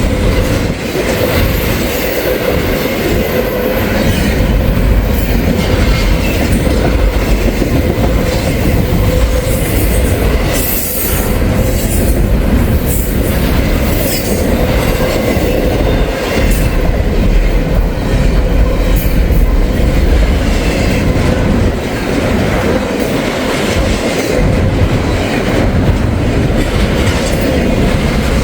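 Long CSX intermodal freight train rolling steadily past, its container cars' wheels clicking over the rail joints with a steady squealing tone under the rumble.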